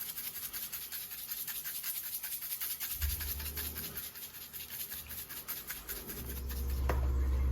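Seasoning shaker being shaken over raw chicken: a fast, even run of dry rattling shakes. A low hum comes in near the end.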